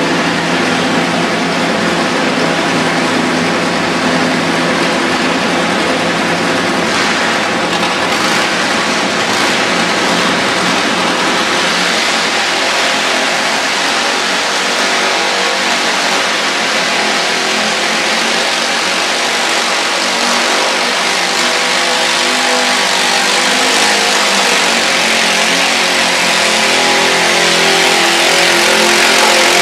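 Motorcycle-engined mini rod puller running hard under load, a loud steady engine note that grows a little louder near the end.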